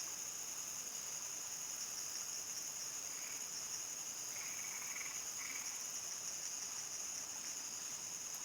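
Evening chorus of crickets: a continuous, steady high trill. A few short, faint calls sound lower, about three to five seconds in.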